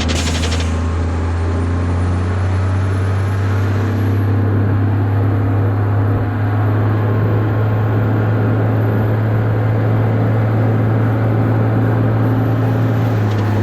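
Diesel engine of a converted fire truck running steadily, a constant low drone with road or mechanical noise over it.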